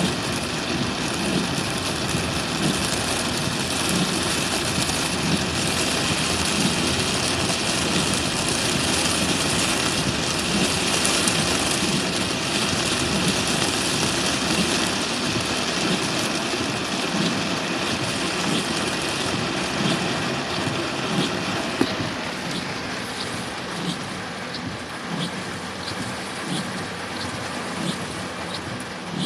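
Heavy rain pounding on a car driving through a storm, with the engine running underneath. About two-thirds of the way in the rain eases slightly and a faint regular tick comes in, about once a second.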